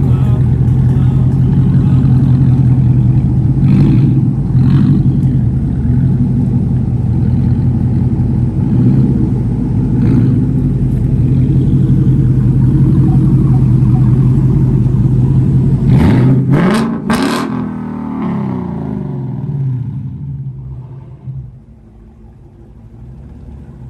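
A loud muscle-car V8 engine runs steadily for about sixteen seconds. Then its pitch sweeps away with a couple of sharp cracks, and it fades out.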